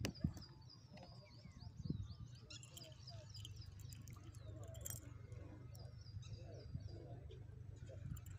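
Small birds chirping: quick runs of short, falling high notes, repeated in series, over a low steady hum. There are a couple of soft knocks, one at the start and one about two seconds in.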